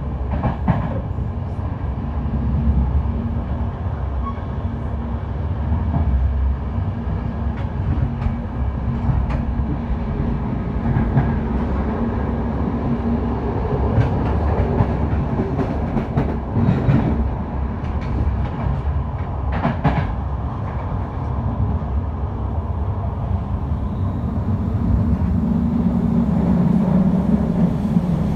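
Passenger train in motion: a steady low rumble with occasional sharp clacks of the wheels over rail joints, the low hum growing stronger near the end.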